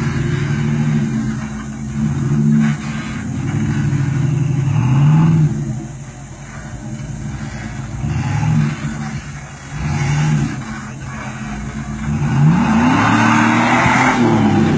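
GMC Envoy SUV's engine revving up and down in repeated bursts as it crawls over logs, with a long rising rev near the end.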